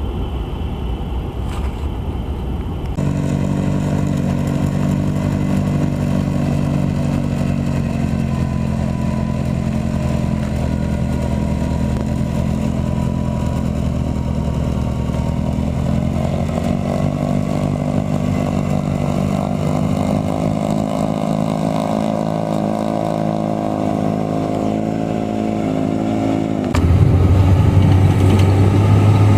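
Engine of heavy snow-clearing machinery running steadily. The sound changes abruptly about three seconds in and again near the end.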